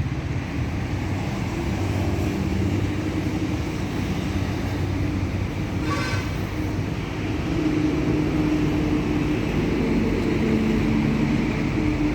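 Steady background rumble of motor vehicles, with a brief high-pitched tone about six seconds in.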